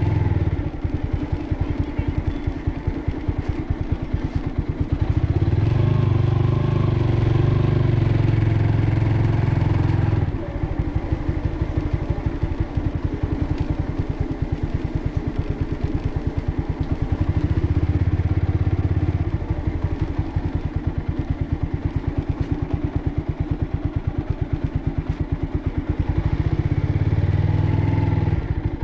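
Motorcycle engine running under way with a steady train of firing pulses, swelling louder several times as the throttle opens.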